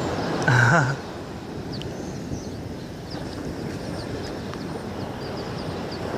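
A short, loud bird call about half a second in, over steady wind and surf noise with faint high chirps from other birds.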